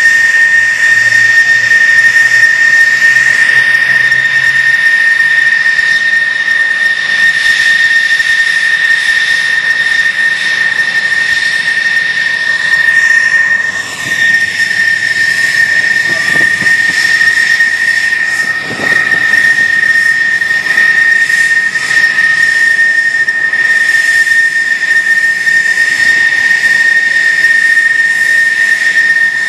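F-16 jet engine running steadily, a loud high-pitched whine over a rushing hiss. The level dips briefly about halfway through, with a falling sweep.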